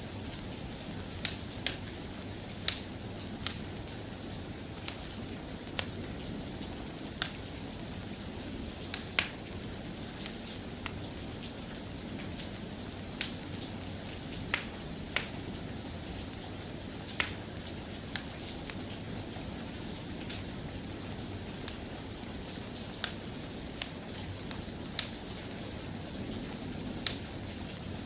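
Soft, steady rain with scattered sharp clicks at irregular intervals.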